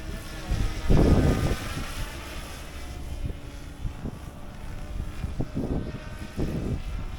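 RC helicopter flying overhead, a steady rotor-and-motor drone with a thin whine, broken by a few short low rumbles, the loudest about a second in.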